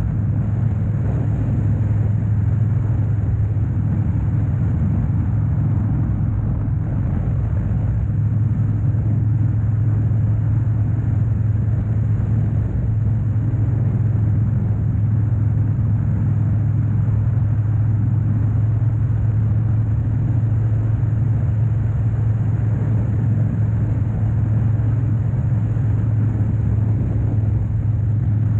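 2013 Harley-Davidson Dyna Wide Glide's air-cooled 103 cubic inch Twin Cam V-twin running at a steady cruise, a constant deep hum with rumbling road noise and no change in speed.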